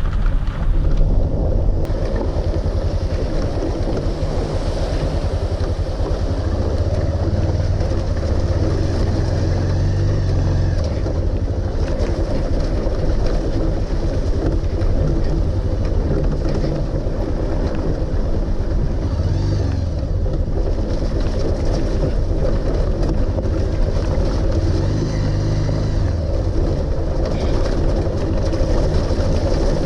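Motorcycle engine running steadily while under way, an even pitched drone with road and wind noise over it.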